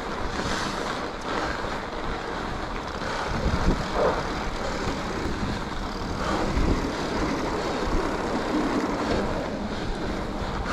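Mountain bike ridden on packed, groomed snow: steady rolling tyre noise and wind on the microphone, with a few low thumps.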